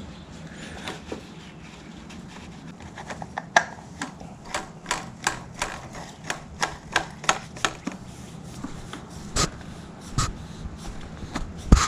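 Engine oil dripping from the drain hole into a drain pan as the draining tails off: a regular run of sharp drips, about three a second, then a few slower ones.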